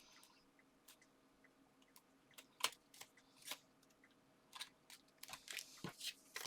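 Paper and card being handled during card-making: scattered short, sharp clicks and crinkles, more frequent toward the end.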